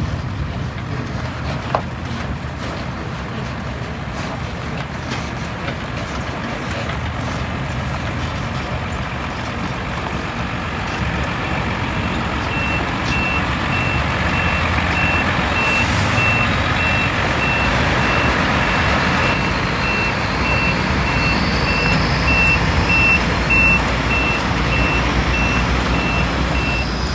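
A truck's engine running with its reversing alarm sounding: a steady row of short, high beeps begins about halfway through, over a low engine rumble that grows somewhat louder.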